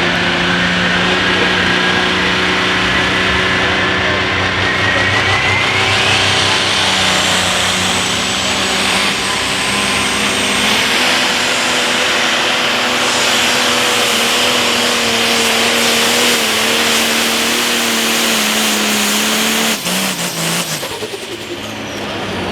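Turbocharged diesel pulling tractor at full throttle under load during a pull. A high turbo whine climbs over the first six seconds, then the engine runs steady and hard. About 20 seconds in, the throttle comes off and the engine winds down.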